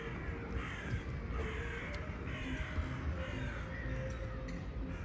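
A bird gives a run of harsh calls, each one falling in pitch, over a steady low rumble.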